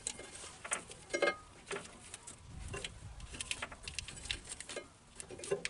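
Irregular small clicks, clinks and knocks of hands and tools working on the machine, with a soft low rumble about halfway through.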